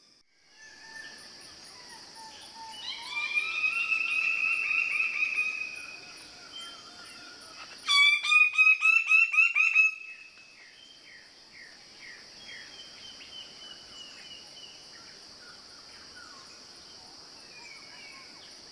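Tropical forest birds calling over a steady high insect drone. A loud warbling call comes a few seconds in, then a fast run of loud, rapidly repeated notes, followed by softer scattered chirps.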